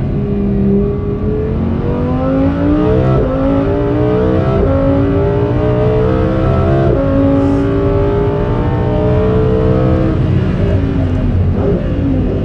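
Lamborghini Huracán Performante's naturally aspirated V10 on its stock exhaust, pulling hard under full throttle. The pitch climbs and drops sharply three times as it shifts up through the gears, then climbs more slowly and falls away near the end as the driver comes off the throttle.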